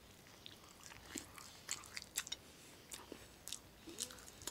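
Close mouth sounds of someone biting and chewing a soft sardine, boiled egg and avocado sandwich: faint, irregular sharp clicks and smacks, coming thicker from about a second in.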